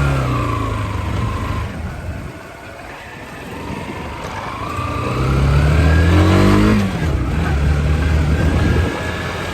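Motorcycle engine under way: its note winds down, then it accelerates with rising pitch, drops sharply at a gear change about seven seconds in, and runs on steadily.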